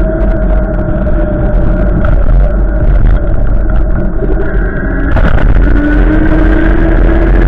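Strong wind gusts buffeting the microphone: a heavy low rumble with a rushing noise over it and a few steady pitched tones that shift to a new, slowly rising pitch about five seconds in.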